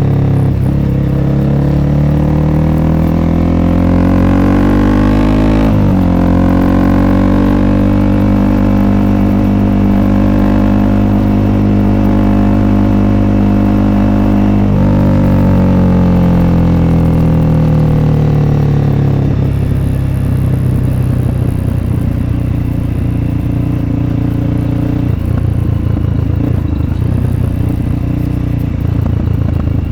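Honda CRF300L's single-cylinder four-stroke engine through an FMF Q4 exhaust, pulling through the gears. The pitch rises, drops at a gear change about six seconds in, rises again, and drops at a second shift around fifteen seconds. After about twenty seconds the engine eases off into a lower, rougher running.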